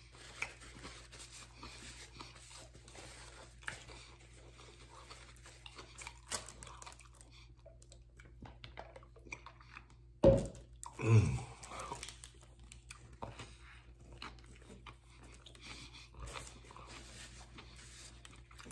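A man chewing mouthfuls of a sub sandwich close to the microphone: soft, wet crunching and small mouth clicks. Two short, louder vocal sounds with falling pitch stand out about ten and eleven seconds in.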